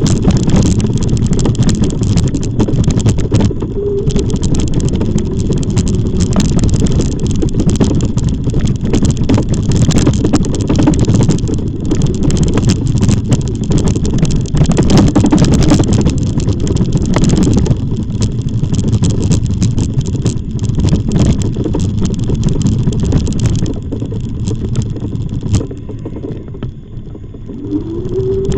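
Wind buffeting the microphone of a camera on a moving e-bike, a loud, continuous rumble with frequent knocks and rattles from the ride. It eases a little near the end.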